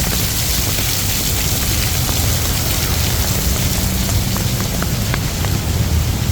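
Heavy rain falling steadily, with a low rumble underneath and a few sharp drip ticks about four to five seconds in.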